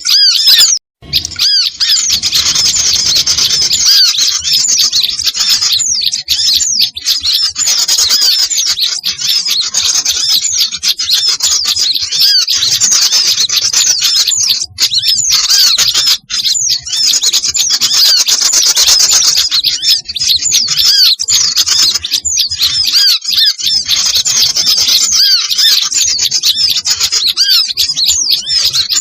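Loud, dense chorus of many small songbirds chirping and chattering all at once: a mixed small-bird lure recording of the kind used to call small birds in. The calls break off for a moment about a second in, then carry on unbroken.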